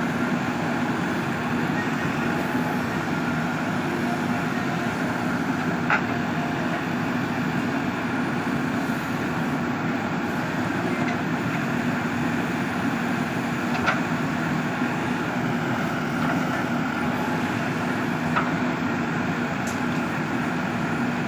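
JCB 3DX backhoe loader's diesel engine running steadily under work, with three short knocks along the way.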